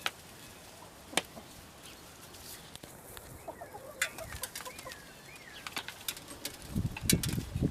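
Chickens clucking softly, with short calls about halfway through and sharp clicks scattered throughout. Near the end comes a louder flurry of low thumps and rustling.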